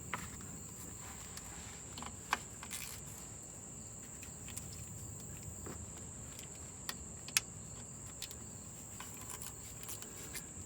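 Scattered sharp metal clicks of a socket ratchet working on a 10 mm transmission-pan bolt, over a steady high-pitched drone.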